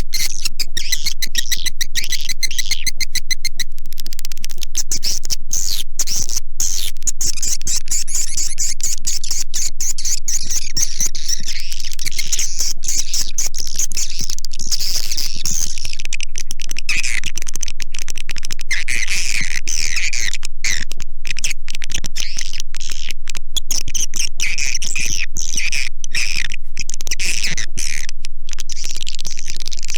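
Recorded swiftlet lure call: a loud, dense, unbroken chorus of rapid twittering chirps and clicks from edible-nest swiftlets, the kind of track played from speakers in swiftlet houses to draw the birds in to roost and nest.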